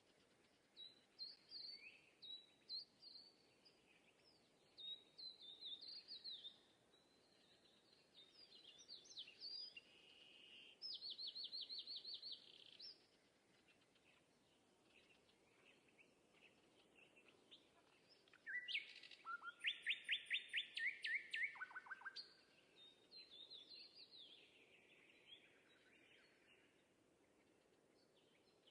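Small birds chirping and singing: scattered short whistled phrases, with a rapid trill around the middle and a louder, longer trill about two-thirds of the way through.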